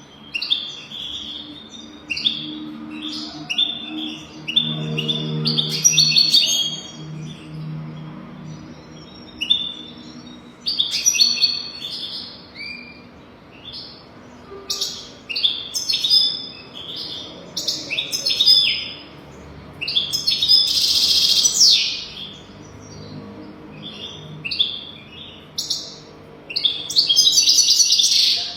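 European goldfinch singing: bursts of quick, tinkling twitters and chirps, phrase after phrase with short pauses between them.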